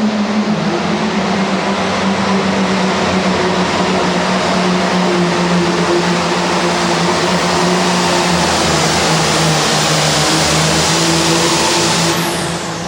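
Super Farm pulling tractor's turbocharged diesel engine running at full throttle under load during a pull, loud and steady, easing off about twelve seconds in.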